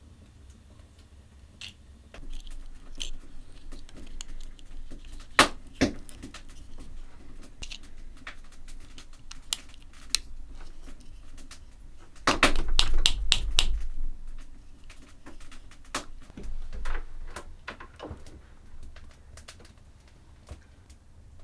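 Scattered sharp clicks and knocks, with a quick run of loud clicks about twelve seconds in, over a low rumble.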